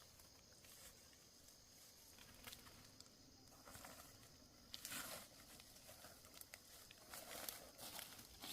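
Faint rustling and crackling, louder about five seconds in and again near the end, over a faint steady high tone.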